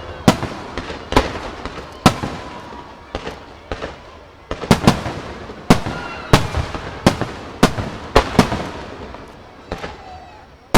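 Aerial fireworks shells bursting in quick irregular succession, each sharp bang followed by an echo, with a dense run of bursts in the middle of the stretch and faint crackle and whistling between them.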